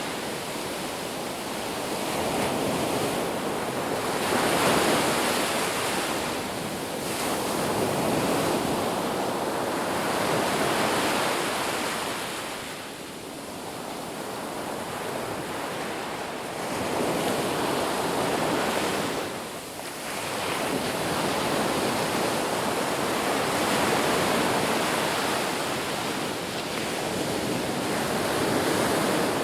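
Ocean surf washing onto a beach, a continuous rushing that swells and ebbs every few seconds as waves break and draw back.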